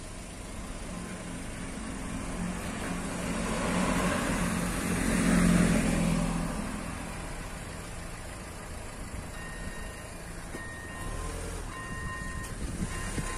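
Diesel passenger railcar approaching and passing close by, its engine drone and wheel noise building to a peak about halfway through and then fading away. In the second half, the level crossing's electronic bell gives short repeated beeping tones.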